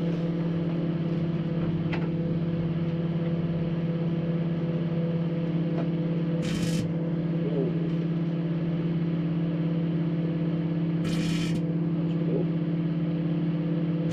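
Microwave oven running with a steady electrical hum, lit tealights in their metal cups inside. Two short hissing bursts come about six and eleven seconds in.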